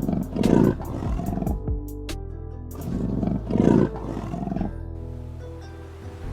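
A large animal roaring twice, about three seconds apart, over background music.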